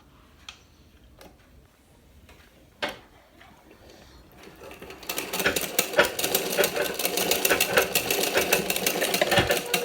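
Singer straight-stitch sewing machine stitching through fabric, its needle mechanism clattering in a fast, even rhythm. A few isolated clicks come first, then the machine starts about four seconds in and runs up to speed.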